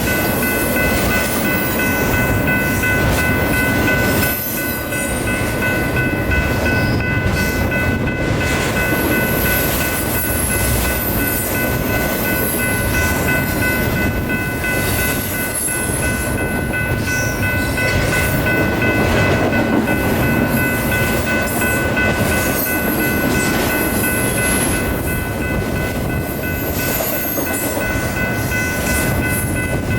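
A train rolling past close by: a steady rumble of rail cars, with several steady high tones held throughout and short, very high squeals here and there.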